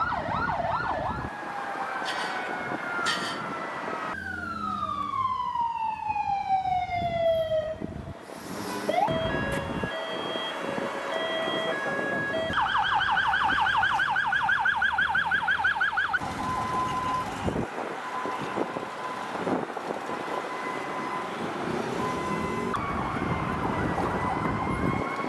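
Ambulance sirens sounding over several cut-together shots: a slow falling wail, then a fast warbling yelp, with the sound changing abruptly between shots.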